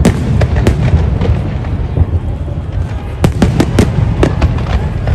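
Fireworks display: a steady run of sharp bangs over a continuous low rumble, with a quick cluster of bangs about three seconds in.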